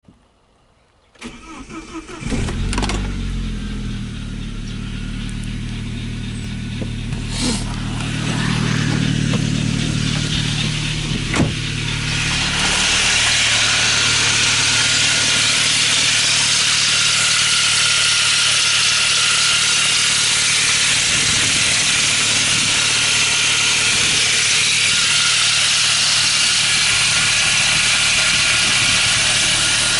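Saab 9-3's B204 2.0-litre turbocharged four-cylinder cranked by the starter, catching after about a second and settling to idle. About ten seconds later a loud, steady hiss-like hum joins the idle and holds: the unexplained noise that comes on after a cold start and goes silent after 5–10 minutes or about 2 km of driving.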